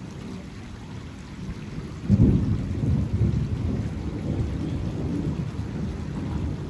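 Thunder: a low rumble that breaks into a loud clap about two seconds in, then rolls on heavily.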